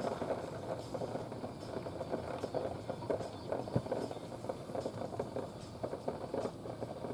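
Heavy rain falling, a dense irregular patter of drops hitting hard surfaces.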